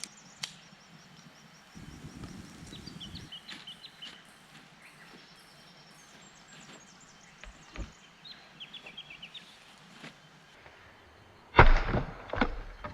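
Small birds chirping in short repeated series in the bush, with a few soft knocks, then a loud clatter of knocks near the end.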